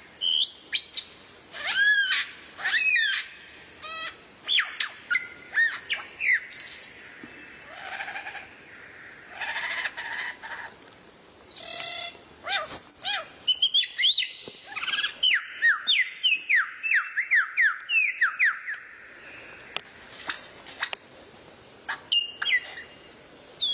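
Songbird singing: varied sharp chirps and whistles, then a quick run of falling whistled notes, about three a second, for some five seconds past the middle.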